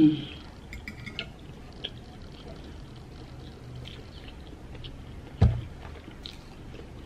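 Close-up chewing and wet mouth sounds of someone eating a bite of boiled egg, with a few faint clicks. A brief hummed voice sound tails off at the very start, and a single dull thump comes about five and a half seconds in.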